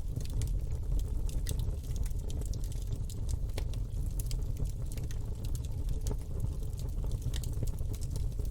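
Campfire burning with a steady low rumble of flames and irregular sharp crackles and pops from the wood.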